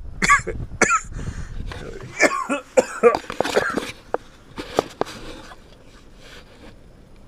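A man coughing and clearing his throat several times over the first few seconds, followed by a few sharp clicks around four to five seconds in.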